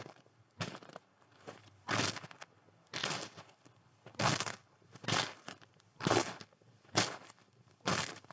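Footsteps crunching through snow at a slow, steady walking pace, about one step a second, each step a short crunch.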